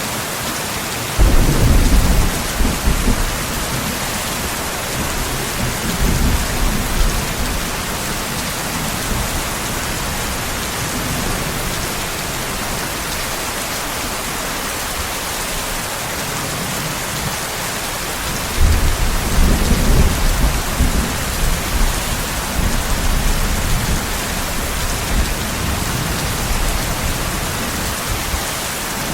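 Steady rain with thunder. A rumble breaks in sharply about a second in and dies away over a few seconds. A second long rumble starts about two-thirds of the way through and fades out gradually.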